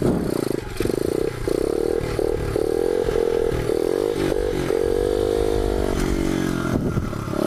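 125 cc pit bike's single-cylinder engine revving under hard throttle for a wheelie, the pitch climbing, holding and dropping back several times as the throttle is opened and chopped, then falling off near the end.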